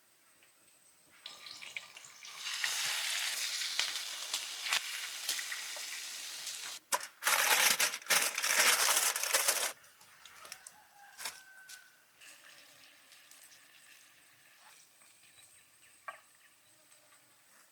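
Food sizzling in a hot pan over an open fire. The sizzle rises sharply about two seconds in, flares louder in several bursts around the middle, then dies down to a faint crackle with scattered clicks.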